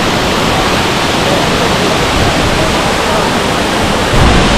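Girlevik Waterfall's water falling and rushing: a loud, steady, even noise, with a stronger low rumble coming in near the end.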